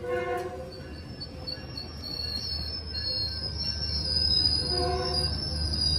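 Metrolink commuter train's bilevel coaches rolling past, a low rumble that grows louder toward the end, with a steady high wheel squeal from about a second in. Two brief pitched tones sound, one at the start and one about five seconds in.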